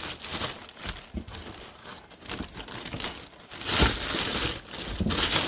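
Cardboard and plastic packaging handled during unboxing: irregular crinkling and rustling with a few light knocks, loudest about four seconds in.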